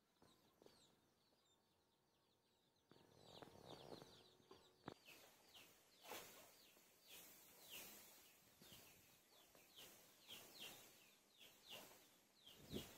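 Faint, repeated high peeps falling in pitch, a small bird peeping about twice a second. From about three seconds in, shallow muddy water sloshes and splashes under it, with a sharp knock near the end.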